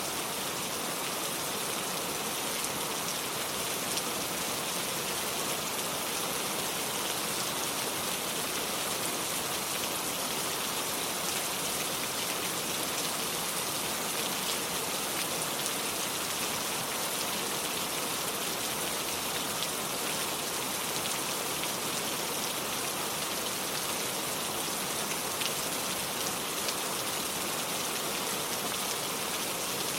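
Steady rain falling, an even hiss with many fine, scattered drop taps.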